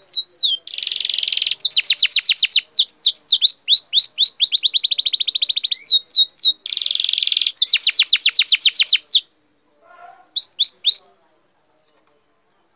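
A songbird singing a long, loud song of fast trills of repeated downward-sweeping notes, broken by two buzzy stretches. It stops about nine seconds in and is followed by a brief three-note phrase.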